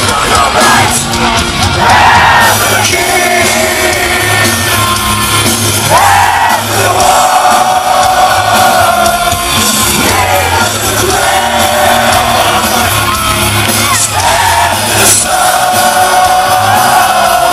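Heavy metal band playing live at full volume, a male lead voice singing over loud guitars, bass and drums.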